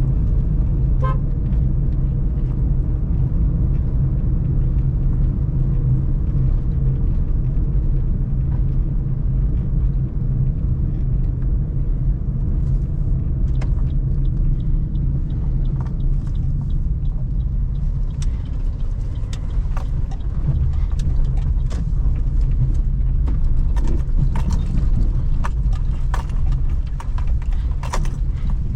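Suzuki Celerio's small three-cylinder petrol engine running steadily while driving, with constant low road rumble. A short horn note sounds about a second in, and sharp clicks and knocks come through the second half.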